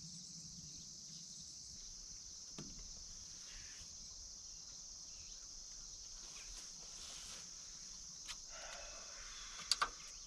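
Steady high-pitched chorus of crickets and other insects. A few sharp clicks break in, the loudest two close together near the end.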